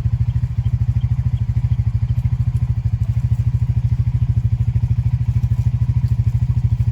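An engine idling with a steady low throb, about thirteen even beats a second.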